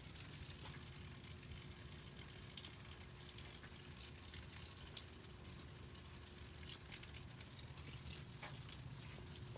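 Steady rain spilling off a roof edge that has no gutters and spattering onto a porch: an even hiss with many scattered drop ticks.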